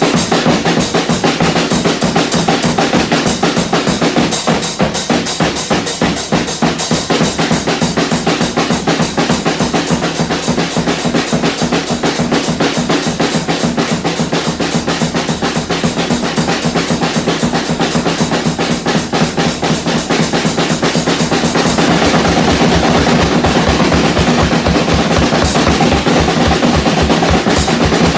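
Drum kit played in a fast, dense, continuous pattern with snare, bass drum and cymbals. About three-quarters of the way through, the bass drum takes over with a heavier, steady beat and the cymbals thin out.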